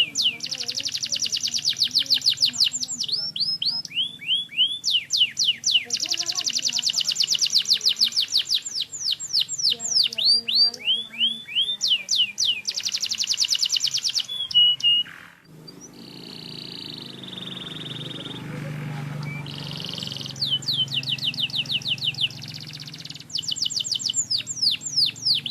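Domestic canary singing: fast trills of repeated rising sweeps in long rolling phrases. About two-thirds of the way in the trilling breaks off for a few seconds of steadier held notes, then the trills resume.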